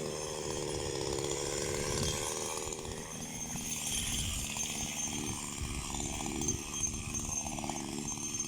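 Small petrol power-tool engine running steadily, its note changing about three seconds in.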